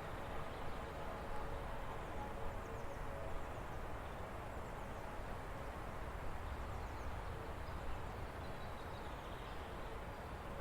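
Forest stream running steadily, with faint bird chirps scattered through it.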